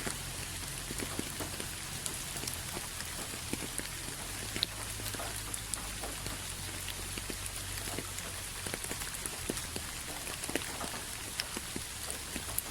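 Steady rain falling, with many individual drops ticking on a surface over an even hiss, and a low steady rumble underneath.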